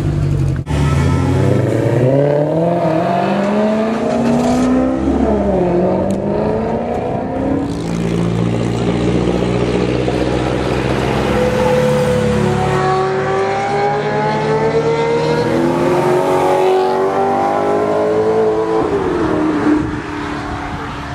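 Maserati GranTurismo S's 4.7-litre V8 accelerating hard, its pitch climbing and dropping briefly at gear changes, then easing off near the end.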